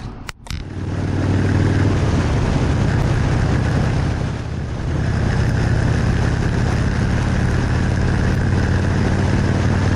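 A motorcycle engine running steadily at road speed, with wind rushing over the bike. It starts abruptly about half a second in and eases slightly for a moment around the middle.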